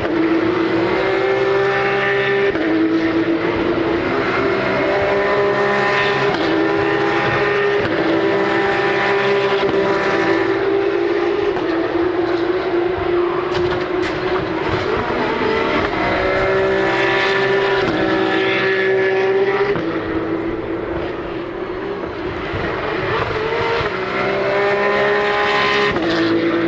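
Racing trucks' diesel engines running hard on the circuit, engine pitch holding and then stepping with gear changes several times, briefly quieter about twenty seconds in.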